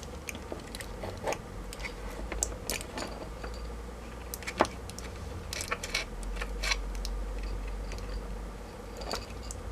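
Scattered small metallic clicks and snaps as snips twist and cut the metal connecting strips between 18650 lithium-ion cells in a notebook battery pack.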